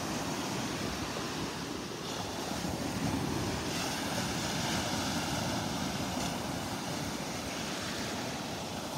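Steady outdoor wind and surf noise, an even rush with no distinct events.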